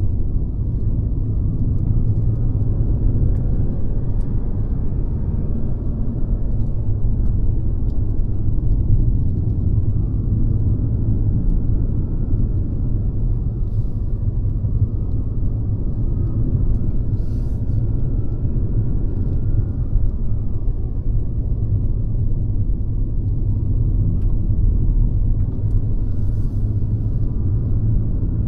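Mercedes-Benz C-Class (W206) driving along: a steady low rumble of its four-cylinder engine and tyre noise while cruising.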